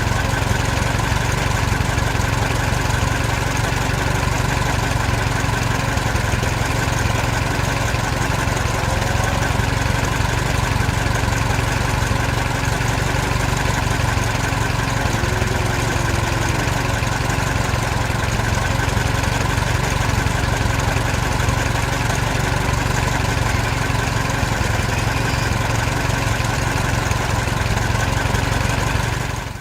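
An engine running steadily at an even pace, a deep hum with a hiss over it, cut in and out abruptly.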